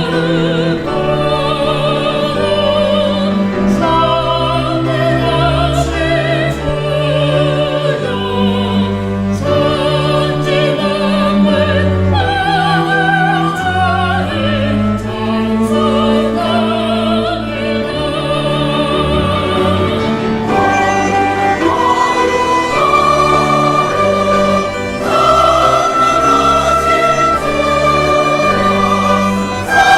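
Choral singing with vibrato over sustained instrumental accompaniment, in the style of a church anthem.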